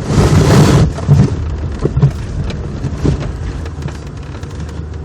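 Small car engine running under load as a chained 1989 Honda Civic ploughs through deep snow. A loud rushing burst of snow comes in the first second, then scattered clicks and crackles over the steady engine hum.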